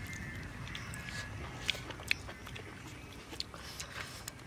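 A man chewing a mouthful of food close to the microphone, with a few soft sharp mouth clicks.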